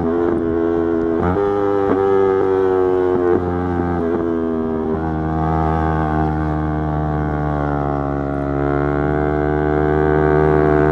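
Yamaha YZF-R3's parallel-twin engine running at steady revs under the rider, with a few brief throttle changes in the first five seconds. It then holds an even tone that dips slightly and rises again near the end.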